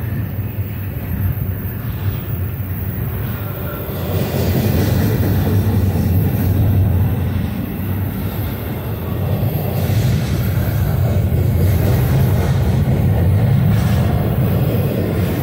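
Norfolk Southern double-stack container freight train rolling past close by: a steady rumble of wheels and cars on the rails, growing louder about four seconds in.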